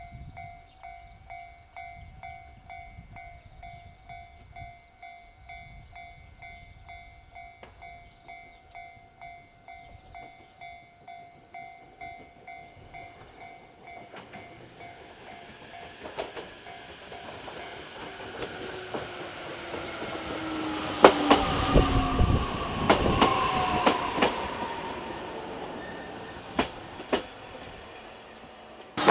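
A railway level-crossing bell rings in a steady repeating pattern. A JR Kyushu 819 series DENCHA battery-electric train then approaches and passes, its wheels clicking over rail joints and its motor whine falling in pitch.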